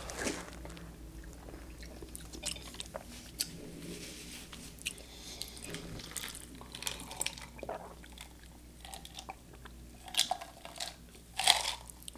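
Close-miked chewing and wet mouth sounds of a person eating canned pasta in tomato sauce (zoodles), with drinking sounds from a cup. The louder sounds come near the end.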